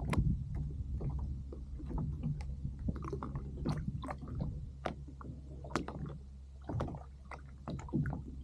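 Water lapping and splashing against a kayak hull, with scattered small knocks and ticks over a steady low rumble.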